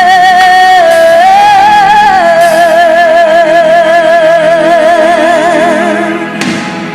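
A singer holding one long note with vibrato, on the word 'love', over soft backing music; the note lifts briefly about a second in, settles again and fades near the end.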